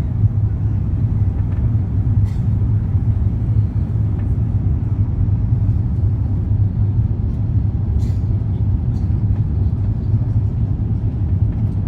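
Steady low rumble of an Airbus A350-900 cabin in flight: airflow and the jet engines heard from a passenger seat. A few faint ticks from inside the cabin.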